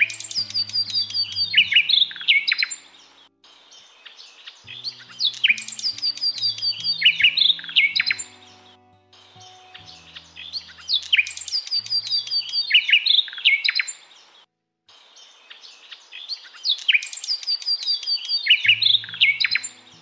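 A songbird singing a rapid run of high chirps that step down in pitch, each phrase about three seconds long and the same phrase coming four times about every six seconds, over soft background music with held low notes.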